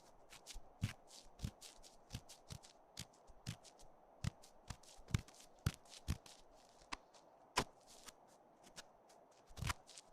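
Close-miked ear-cleaning ASMR: an ear-cleaning tool scratching and tapping in a microphone's ear. It makes an irregular string of short crackly scratches, several a second, some with a soft thump.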